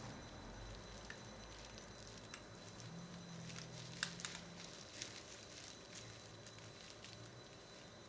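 Faint scattered clicks and light taps of small parts being handled and worked with a tool on a cassette recorder's tape mechanism, the sharpest click about four seconds in.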